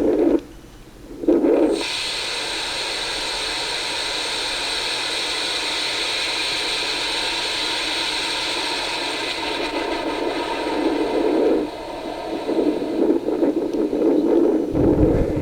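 A 6.6-inch two-grain sorbitol sugar rocket motor igniting about two seconds in and burning with a steady, loud rushing hiss for about ten seconds, then turning rougher and uneven as the burn tails off.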